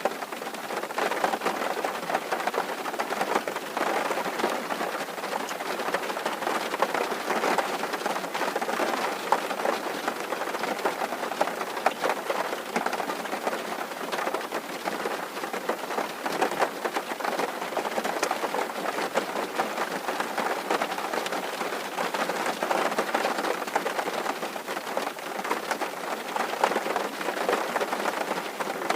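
Rain drumming steadily on a tin roof: a dense, even patter of many small drop impacts on sheet metal.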